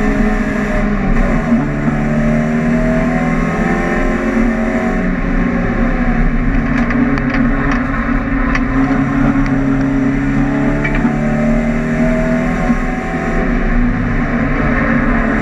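Volkswagen Golf GTI race car's engine running hard, heard from inside the car, its pitch rising and falling several times with throttle and gear changes. A few sharp clicks come about halfway through.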